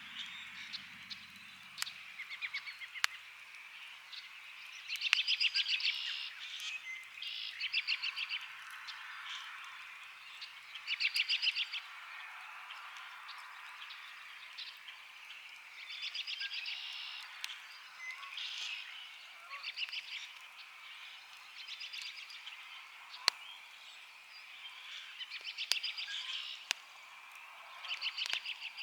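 Wood campfire crackling with scattered sharp pops, under a spring evening chorus of fast pulsed trills about a second long, repeated every two to three seconds.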